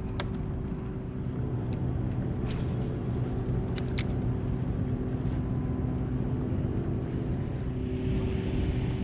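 A steady low mechanical drone holding a few constant tones, with a few faint clicks over it.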